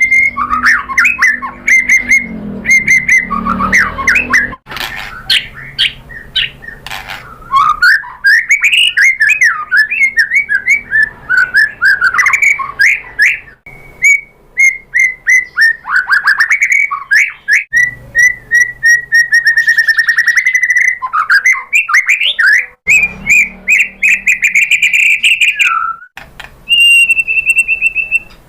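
White-rumped shama (murai batu) singing a long, varied song of rapid chirps, sweeping whistles and fast trills, with a held, steady whistle near the end.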